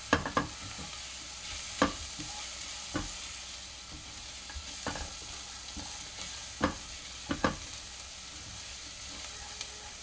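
Chopped onion, garlic, ginger and green chilli sizzling in butter in a nonstick pot, with a steady hiss and the occasional sharp scrape or tap of a spatula as they are stirred.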